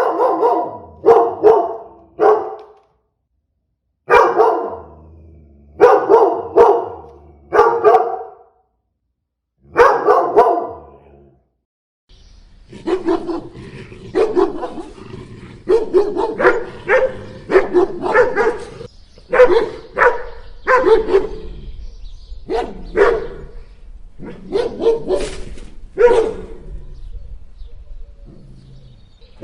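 Big dogs barking deep, loud barks. At first they come in short runs of two to four with silent gaps between. About twelve seconds in, the barking turns steadier, roughly one or two barks a second, over a low background rumble.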